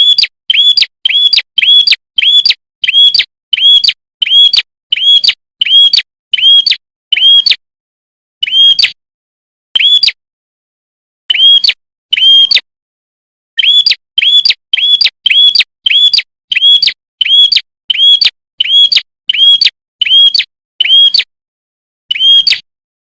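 A prenjak kepala merah, a small prinia-type songbird, calling one short, sharp chirp over and over, about two to three a second, with a few brief pauses.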